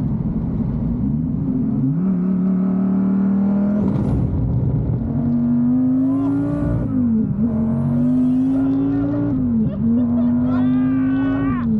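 Cabin sound of a 1500-horsepower twin-turbo Dodge Viper V10 under hard acceleration. Its pitch climbs through each gear and drops at each of four manual upshifts. A passenger shouts and laughs over it in the second half.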